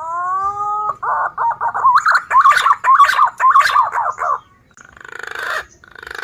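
Green pigeon (punai) calls played as a trapping lure: a long whistled note rising slightly, then about three seconds of quick warbling whistles, ending in two short hoarse, rasping phrases.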